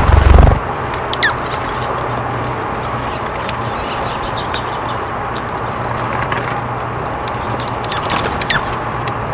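Small wild birds giving a few short, high chirps, one sliding down in pitch, scattered about a second in, around three seconds and near the end, over a steady low hum and hiss. A low thump at the very start is the loudest sound.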